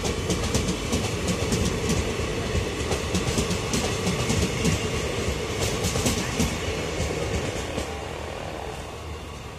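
Passenger train coaches rolling past on the track, their wheels clicking and clattering over rail joints over a steady rumble. The sound eases off near the end as the last coaches go by.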